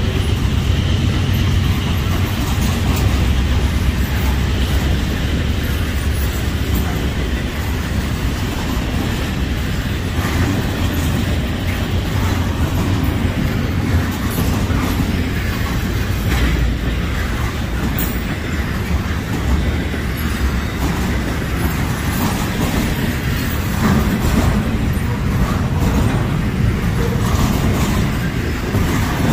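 Norfolk Southern freight train rolling past: a continuous low rumble with the clickety-clack of wheels over the rail joints.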